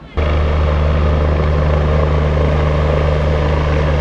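Emergency helicopter running loudly and steadily, its engine and rotor noise cutting in suddenly just after the start.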